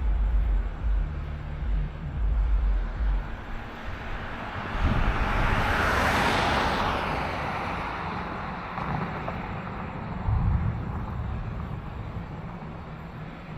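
A vehicle passing by, its tyre and engine noise swelling to a peak about six seconds in and then fading away, over irregular low rumbles.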